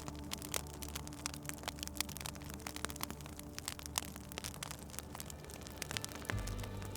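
Wood fire crackling in a fireplace: irregular sharp pops and snaps over a soft hiss. A steady low drone sits underneath and changes pitch about six seconds in.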